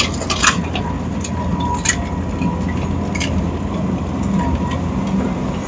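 Heavy diesel machinery running steadily at a low rumble, with scattered short clicks and knocks.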